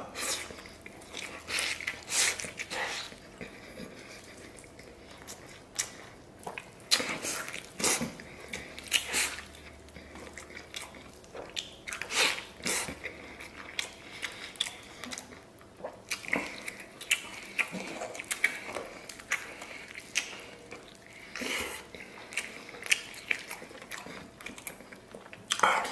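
Close-up eating sounds of a man biting and chewing tender braised pork off a large bone: irregular mouth clicks and smacks throughout.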